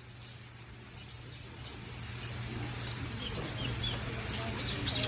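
Small birds chirping: short, high calls, sparse at first, coming thicker and louder toward the end, over a steady low hum.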